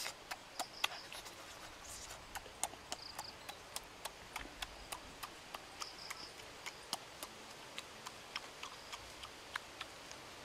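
A person chewing and lip-smacking with an open mouth: a string of irregular sharp clicks, a few a second.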